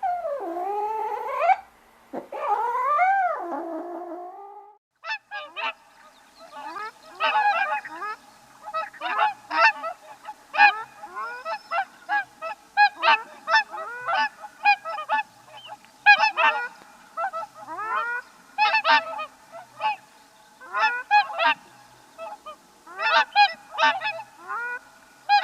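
A flock of swans honking: many short honks in quick, overlapping succession, starting about five seconds in. This follows a couple of long, wavering calls that rise and fall in pitch.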